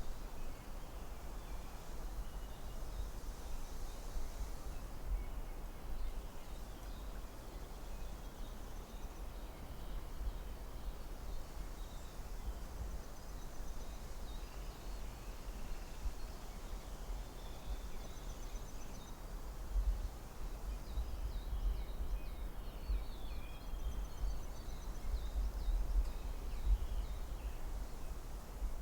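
Forest ambience: a steady low rumble of wind under a soft even hiss. Small birds give scattered faint chirps, and short high trills recur every few seconds.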